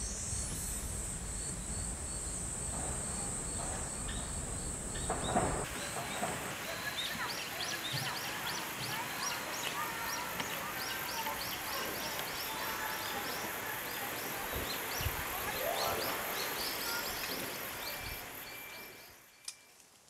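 Forest ambience: many small birds chirping in quick, short calls over a steady background. A steady high-pitched buzz, like insects, sounds for the first few seconds. It all fades out near the end.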